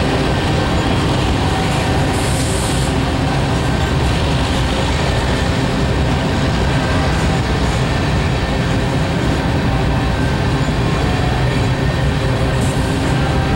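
Norfolk Southern covered hopper cars of a slow freight train rolling past, steel wheels rumbling steadily on the rails.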